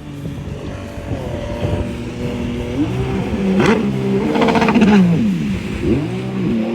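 An engine revving up and down repeatedly, its pitch rising and falling, loudest about five seconds in.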